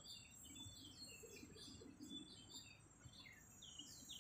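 Faint chirping of small birds: many short, quickly falling chirps in rapid succession.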